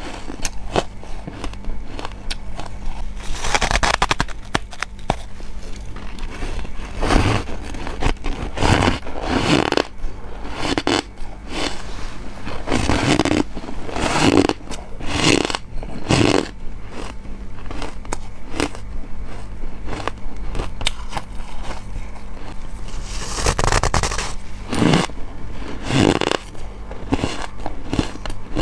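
Close-miked bites and chews of soft, powdery freezer frost: a run of irregular crunches and scrapes, one every half second to two seconds, over a faint steady low hum.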